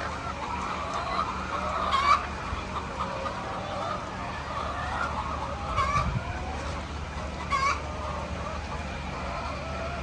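A flock of laying hens clucking together, with sharper, louder calls about 2, 6 and 7.5 seconds in. A steady low hum runs underneath.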